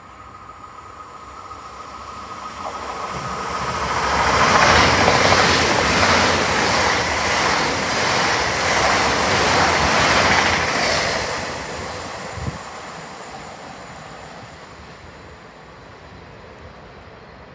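A GWR Hitachi Intercity Express Train (Class 800-series) passes through the station at speed without stopping. A rush of wheel-and-rail noise builds over a few seconds and peaks as the carriages go by, with a regular beat as each bogie passes. It then fades as the train recedes.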